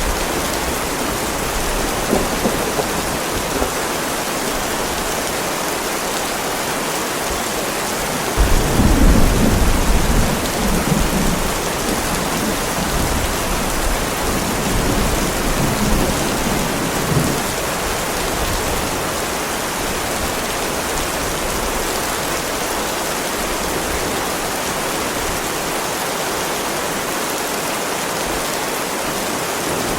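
Heavy rain falling steadily on a driveway, an even hiss. About eight seconds in, a roll of thunder breaks in suddenly and rumbles for a few seconds before fading back under the rain.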